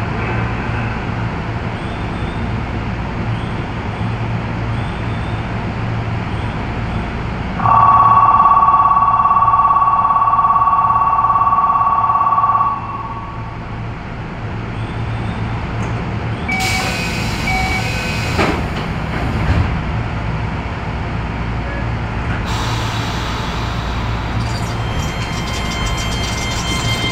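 Keio 7000-series electric commuter train standing at a station with a steady low hum. A departure signal tone sounds steadily for about five seconds, then a hiss and a sharp thud follow as the doors close. Near the end the train starts off, with motor tones rising.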